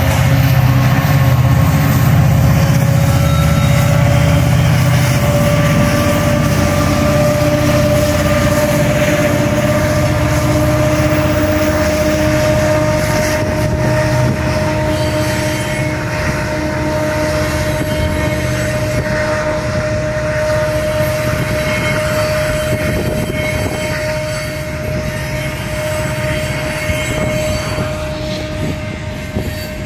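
Union Pacific EMD SD70ACe diesel locomotives rumbling as they pull away, the engine rumble fading over the first dozen seconds. The loaded rock train's cars then roll through the grade crossing, with a steady high wheel squeal over the rolling noise.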